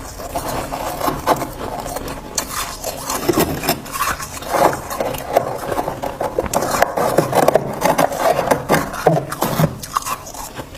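Freezer frost crunching and rasping close to the microphone: a dense, irregular run of scraping crunches.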